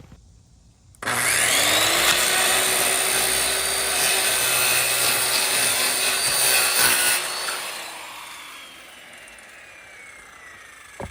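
Electric power tool working wood: the motor spins up about a second in, runs steadily with a gritty rubbing noise for about six seconds, then is switched off and winds down with a slowly falling whine.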